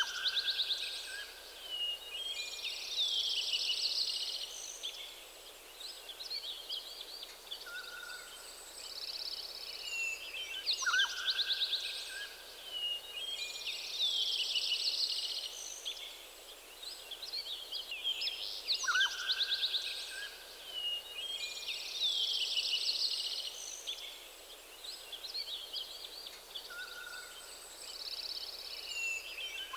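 Several songbirds singing together, with overlapping high chirping and trilling phrases that repeat every few seconds, and a short lower whistled note recurring now and then.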